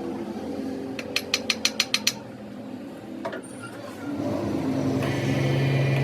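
Workshop tool clicking: a quick run of about seven sharp mechanical clicks, then a single click, then a machine starts up and runs with a steady hum and a high whine.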